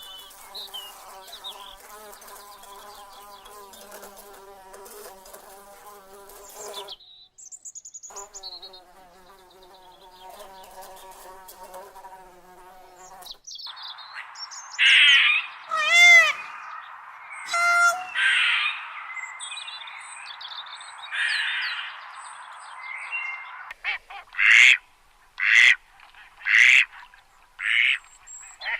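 Flies or bees buzzing in a steady, wavering hum, cut off briefly and resumed. About halfway through it gives way to birds calling over a hiss, with loud short calls and chirps, and a string of separate calls near the end.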